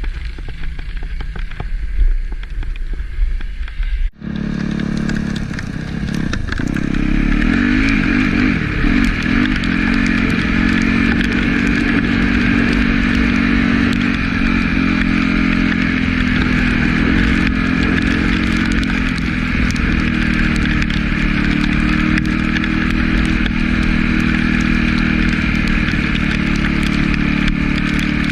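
Yamaha YZ250F four-stroke single-cylinder dirt bike engine running while riding. The sound drops out suddenly about four seconds in, then picks up again and settles into a steady, constant-pitch drone.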